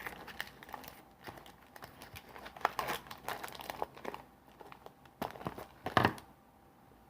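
A Hershey's candy bar wrapper being crinkled and torn open by hand, in irregular crackles with a louder crackle about six seconds in.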